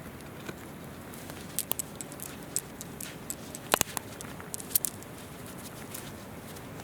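Wood campfire crackling, with irregular sharp pops and snaps, a few louder ones near the middle, over the steady rush of a river.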